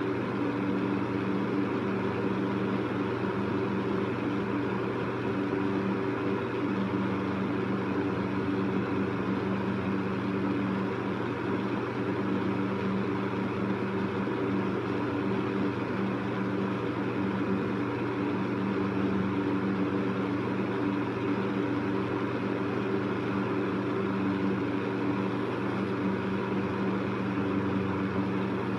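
Electric fan running steadily: a constant whoosh of moving air with a low motor hum under it.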